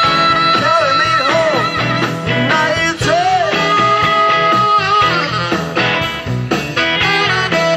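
A rock band playing a blues-rock number, led by guitar, with notes that bend and slide in pitch over a steady beat.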